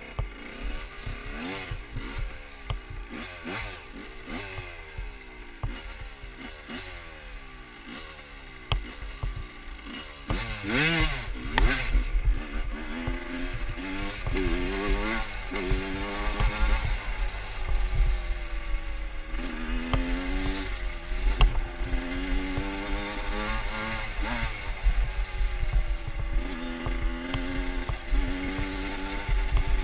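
Motorcycle engine running as the bike is ridden, its pitch repeatedly rising and falling with the throttle and gear changes. It gets louder about a third of the way in.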